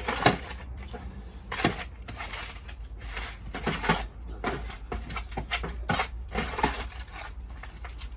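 Irregular scraping and rustling of compost being scooped and spread by hand over a seed tray of sown peas: a string of short, uneven scrapes, with a steady low hum underneath.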